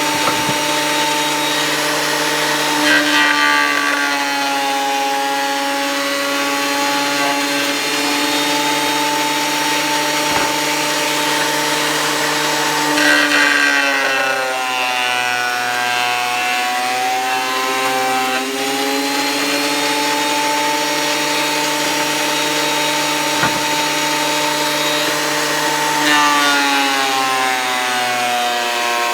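Thickness planer running with freshly changed blades, a steady motor whine that dips in pitch and recovers three times as boards feed through and are planed.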